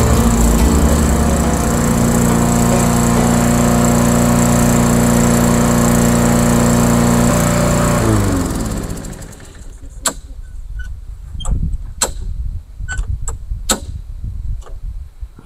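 Tecumseh single-cylinder lawnmower engine running at a steady speed, then shut off about eight seconds in, its pitch falling as it coasts to a stop. Afterwards, several sharp clicks and knocks.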